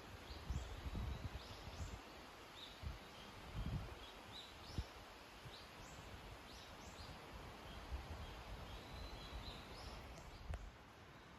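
Birds calling outdoors, many short high chirps repeating over a steady hiss, with a few low thumps in the first few seconds.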